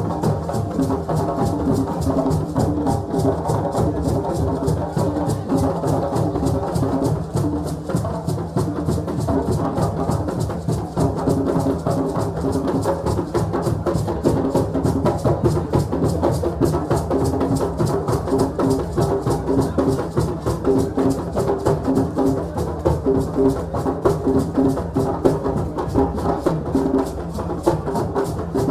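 West African hand-drumming ensemble playing a fast, dense, steady rhythm, with pitched drum tones and sharp wooden clicks over it.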